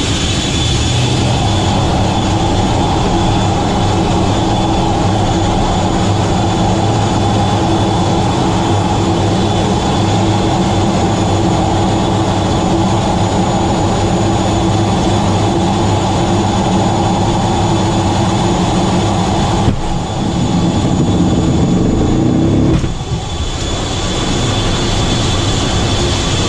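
Aircraft engines running at high power, a steady loud drone with a high turbine whine over a low hum, typical of a C-2 Greyhound's turboprops on a carrier deck at launch. The sound changes abruptly twice near the end.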